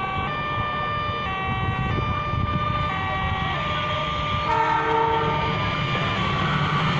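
A train rumbling at a railway station while a series of held tones changes note every half second to a second, like a simple tune, with a brief different chord about two-thirds of the way through; the rumble and noise grow louder near the end as the train draws closer.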